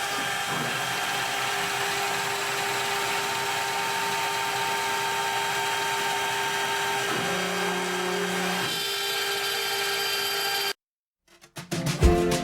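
CNC router spindle running and cutting wood: a steady whine with several held tones that shifts in pitch about seven seconds in, then cuts off suddenly. Background music starts near the end.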